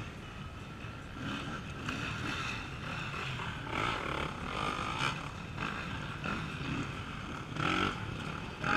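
Off-road race motorcycle engines revving up and down, rising and falling in several surges over a steady background of engine noise.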